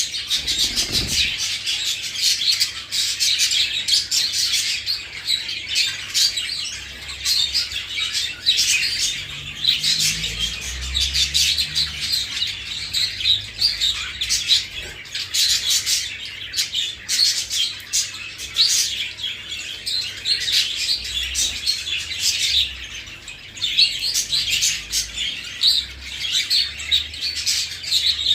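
Budgerigars chirping and warbling continuously in quick, busy chatter.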